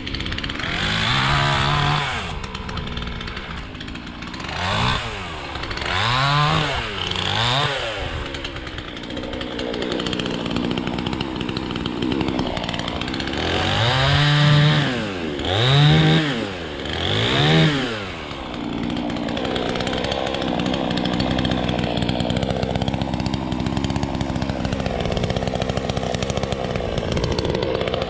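An engine revving up and down several times in quick surges, then running steadily at a constant speed for the last third.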